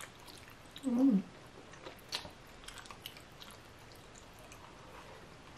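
Close-miked chewing of a mouthful of chewy Chinese glass noodles in rosé tteokbokki sauce, with small wet mouth clicks scattered throughout. There is a brief hum from the eater about a second in.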